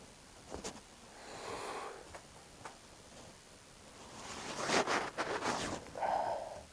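Rustling and scraping as materials are handled, with several light clicks and knocks; the busiest, loudest handling comes about four to six seconds in.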